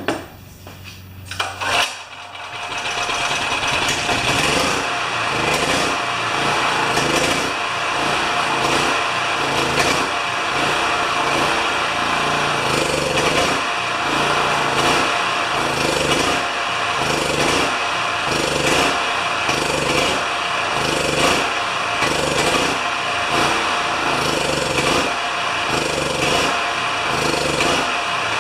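Champion 3000-watt generator's single-cylinder engine catches about two seconds in and keeps running, surging up and down about once a second. It is running with a tiny bit of choke to see whether the carburetor flows at all, and the owner concludes the carburetor is bad.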